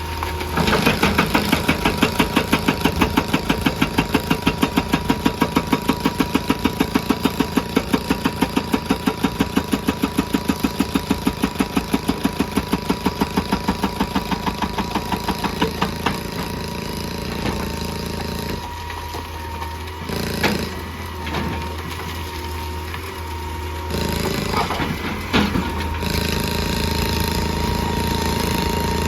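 Excavator's hydraulic rock breaker hammering in a fast, even rhythm of several blows a second, then stopping about two-thirds of the way through, leaving the diesel engine running. A thin, steady high tone runs underneath.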